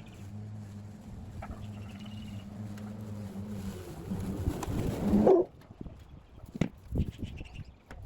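Battery lawn mower running with a steady low hum, growing louder and noisier a few seconds in, then cutting off suddenly about five seconds in; a few scattered knocks follow.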